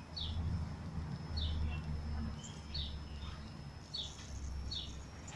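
A small bird chirping repeatedly in short, falling chirps about once a second, over a steady low rumble.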